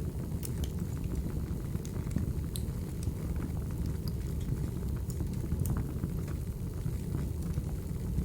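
Recorded crackling wood fire: a steady low rumble of burning logs with scattered sharp pops and crackles.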